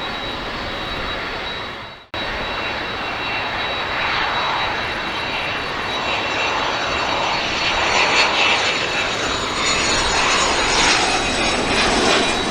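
Aircraft engines running steadily. The sound breaks off abruptly for an instant about two seconds in, where the recording is cut, then resumes and grows slightly louder toward the end.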